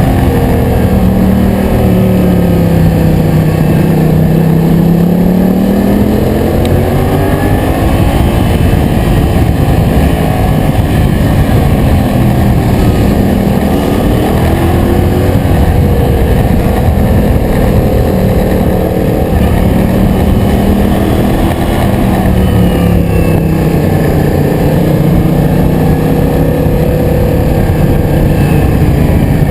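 Yamaha MT-07's 689 cc parallel-twin engine running while the bike is ridden. Its pitch drops as it slows a couple of seconds in, then climbs as it picks up speed again, and it does the same again in the last third. A steady rush of wind noise runs underneath.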